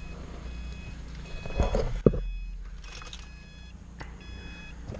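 A car's interior warning chime beeps over and over, just under twice a second. A dull thump comes about two seconds in.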